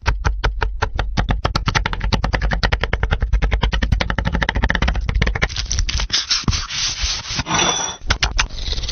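A fast, even run of sharp knocks, about eight a second, getting denser, followed by a rush of hiss near the end.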